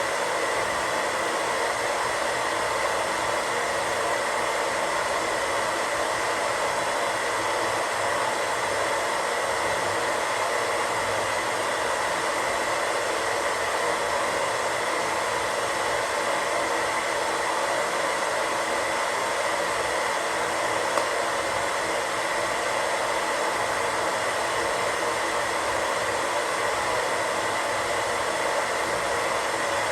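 Radio static: the steady hiss of an untuned radio, even and unchanging.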